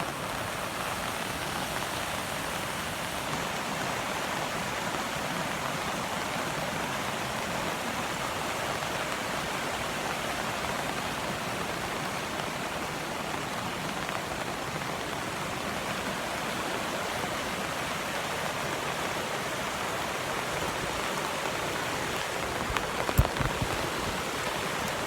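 A rain-swollen creek rushing fast over its bed, a steady even wash of water noise, mixed with rain falling. A couple of brief knocks sound near the end.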